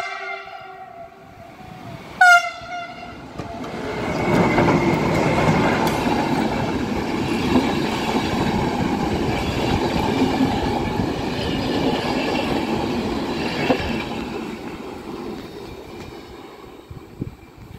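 Passenger train's electric locomotive horn: the tail of one blast, then a second short blast about two seconds in. The locomotive and its passenger coaches then roll past close by, wheels running over the rails, and the noise fades as the train draws away.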